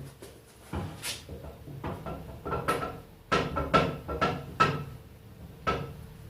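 Heavy metal parts of a Parkinson quick-action vice knocking and clinking together as they are worked into place: about a dozen sharp clanks, each with a short ringing note, the loudest bunched in the middle.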